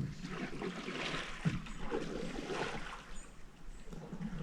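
Canoe paddling: water swishing and trickling off the paddle in uneven swells about once a second, with a soft knock about a second and a half in.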